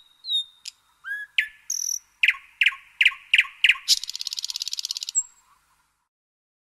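Songbirds calling: a few short high whistles and chirps, then a run of five quick downward-sweeping notes, then a rapid high trill lasting about a second.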